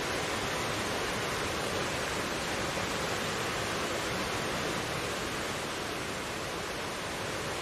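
Mountain stream flowing: a steady, even rush of water over rocks.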